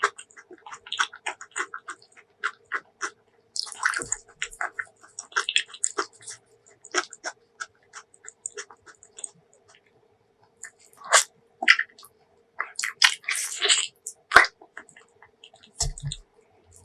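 Close-miked chewing of braised pork leg: wet smacking and sticky clicks of mouth and lips, pausing briefly about halfway through, then a louder run of chewing and smacks.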